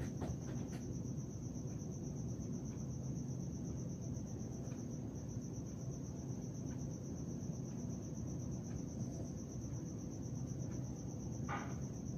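A cricket trilling steadily, one unbroken high-pitched trill, over a low background hum. A brief faint sound comes near the end.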